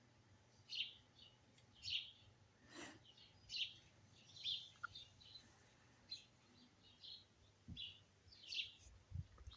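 Birds chirping faintly outdoors: short high calls repeated about once a second, with a single sharp click about three seconds in.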